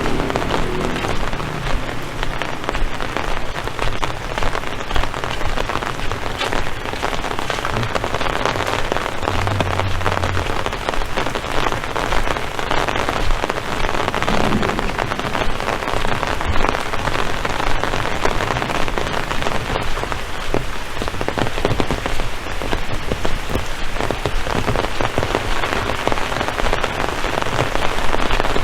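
Heavy rain falling steadily, with a dense patter of close drop impacts. A brief low hum comes in about ten seconds in.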